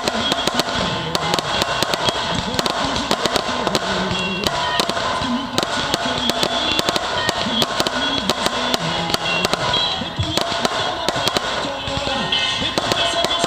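Fireworks display going off over instrumental music: a dense run of sharp bangs and crackles throughout, with held musical notes beneath.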